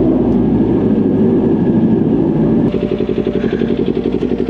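Kawasaki Ninja 400 parallel-twin engine running, then dropping about two and a half seconds in to an even, pulsing idle while it warms up.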